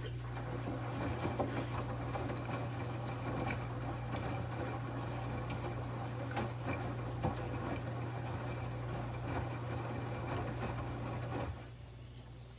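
LG 11 kg washing machine running, a steady mechanical whir with rattling clicks that starts abruptly and cuts off about eleven and a half seconds in, over a constant electrical hum.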